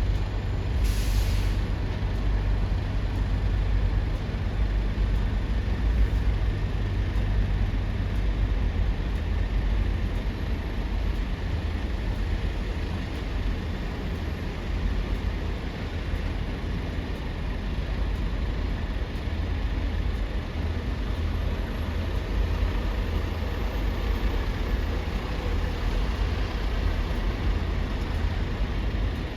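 A truck's air brake hisses once, briefly, about a second in, over a steady low rumble of heavy vehicles at the port.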